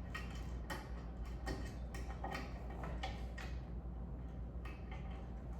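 Screws being driven into ceiling fan blades: irregular small clicks and ticks over a steady low hum.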